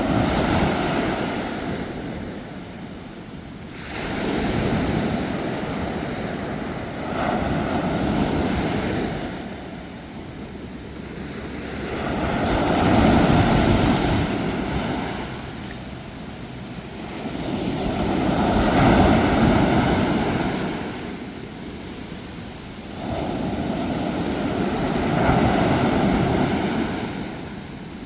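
Sea waves washing onto the shore, the surf swelling and falling away in six surges, each a few seconds apart.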